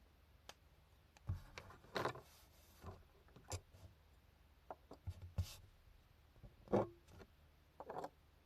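Hand-drawing work at a desk: scattered light taps, clicks and short scrapes of pens, tools and paper being handled, with a few brief rustles.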